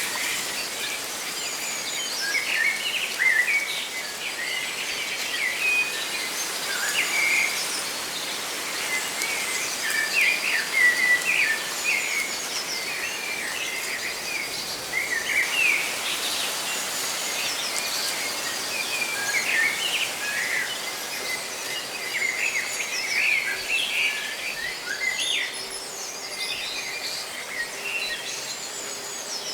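Many small birds chirping and twittering, overlapping short calls and trills, over a steady hiss of rustling leaves.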